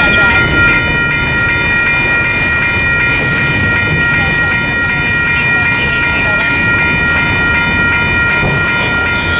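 Double-stack container freight train rolling past: a steady noise of wheels on rails with a constant high ringing tone over it, and a brief hiss about three seconds in.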